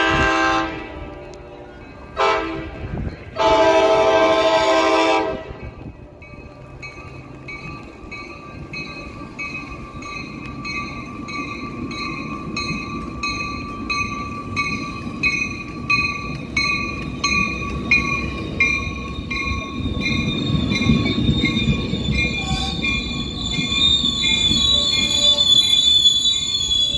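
Sound Transit Sounder commuter train horn blowing a multi-note chord: the tail of a long blast, a short blast, then a long blast of about two seconds. A bell then rings steadily at an even beat while the train rumbles in, the rumble swelling as the cars pass, and high steady wheel squeal joins near the end.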